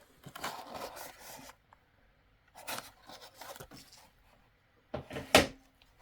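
Handling noises: objects being rubbed and scraped in a few short stretches, with one sharp knock about five seconds in.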